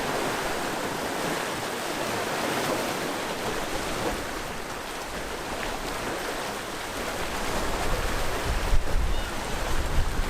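Sea waves washing and breaking on the shore in a steady, continuous wash. Near the end a low rumble of wind gusting on the microphone builds up.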